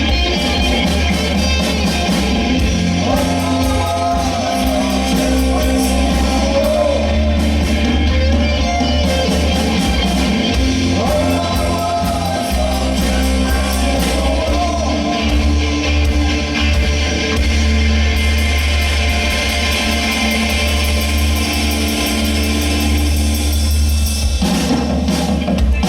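Rock band playing live, with a singer over electric guitar, bass and drums. Near the end the full band drops away and the sound thins out.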